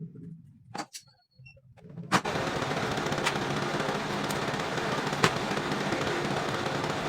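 A few sharp clicks, then about two seconds in a DC Baleno motor driving a converted ceiling fan starts up suddenly. It then runs with a steady, fast rattling whir.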